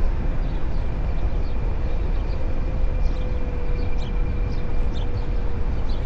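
A Onewheel electric board being ridden: wind rushes over the microphone, and a steady thin whine from the hub motor fades out near the end.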